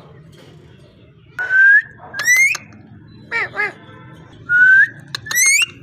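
Parrot whistling a short rising two-note phrase, then repeating it, with a few brief falling squawk-like notes in between.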